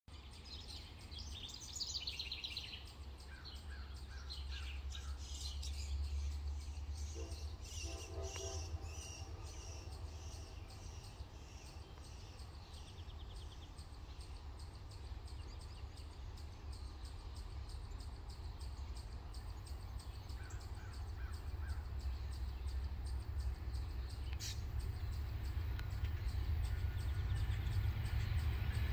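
Birds calling, most of them in the first ten seconds, over a low steady rumble that slowly grows louder toward the end.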